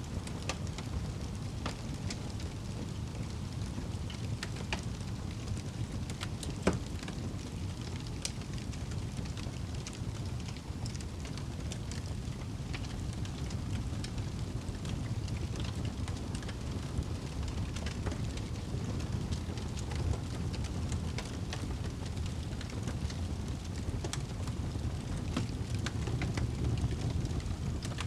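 Wood fire burning in a fireplace: a steady low rumble of flames with scattered sharp crackles and pops, one louder pop about seven seconds in.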